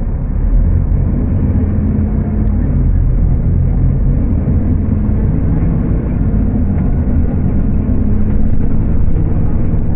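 Scania K250UB city bus's diesel engine running at high revs while the bus is under way, a steady low rumble with an engine note that shifts slightly in pitch. Heard through a phone's microphone.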